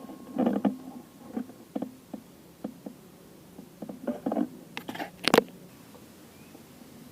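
A run of irregular knocks and clicks, like handling noise, with a sharp loud click about five and a half seconds in, then quiet.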